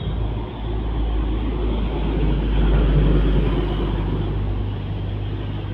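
A large truck's engine running as it drives past, with a steady low rumble that grows louder to a peak about halfway through and then fades.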